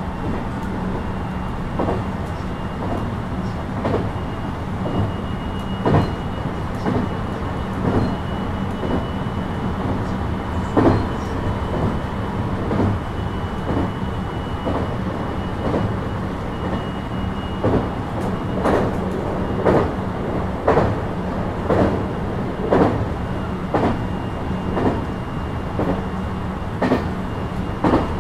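JR West 223 series 2000 electric train with Mitsubishi IGBT inverters, heard from inside the car running at speed. The running gear gives a steady rumble with a faint steady high whine above it. Wheels clack over rail joints, more often in the second half, about once a second.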